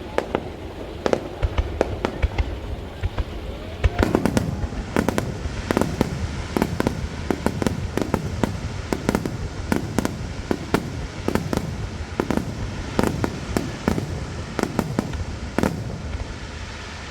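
Aerial firework shells bursting in a rapid-fire starmine finale barrage. The booms come a few at a time at first, then pile up densely from about four seconds in, over a continuous low rumble of echoes.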